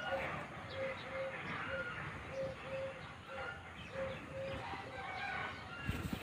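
Birds calling outdoors: a short, low hooting note repeated about twice a second, with higher chirps over it. A low rumble starts near the end.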